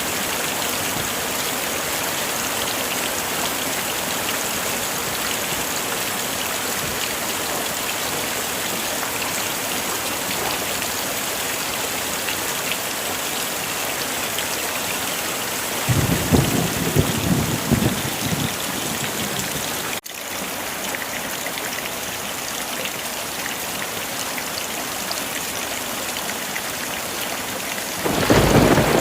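Heavy rain falling steadily, with a rumble of thunder about halfway through and another beginning near the end.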